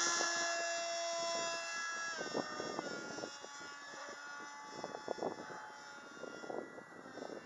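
Electric RC plane's motor and propeller whine, fading as it flies away, with the pitch dropping about two seconds in. Irregular bumps of wind noise on the microphone come through in the second half.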